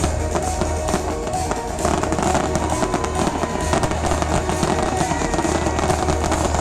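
Loud electronic dance music from a festival sound system with a heavy steady bass, and fireworks popping and crackling over it many times.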